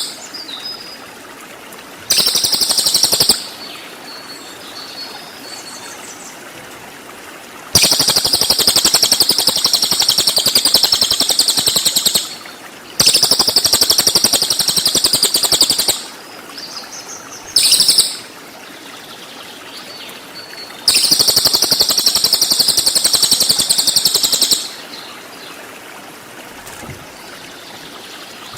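Cililin songbird giving loud bursts of very rapid, high-pitched buzzing 'tembakan' trills, five of them lasting from half a second to about four seconds, the longest in the middle. Between the bursts a steady trickle of running water.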